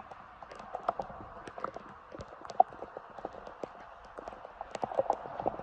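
Players' footsteps running on a wet pitch and the knocks of a football being kicked make irregular taps, with one sharper knock about two and a half seconds in. Under them is a steady hiss of rain.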